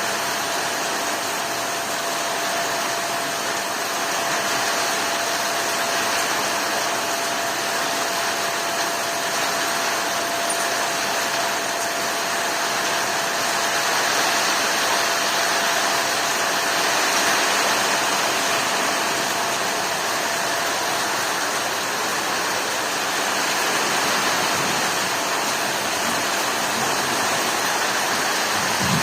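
Heavy rain falling steadily, an even unbroken hiss with no thunder. A faint steady hum runs underneath and stops about three-quarters of the way through.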